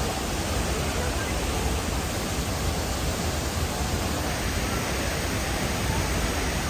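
La Fortuna waterfall plunging into its pool: a steady, unbroken rush of falling water with a deep low rumble.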